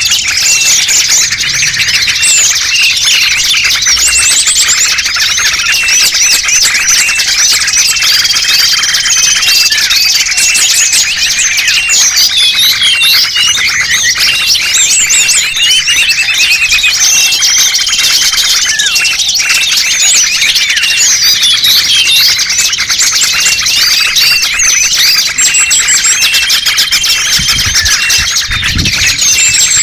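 Dense chorus of many small songbirds chirping and twittering at once, loud and continuous, with a short level whistle that recurs every several seconds: a bird-lure recording played to draw in small wild birds.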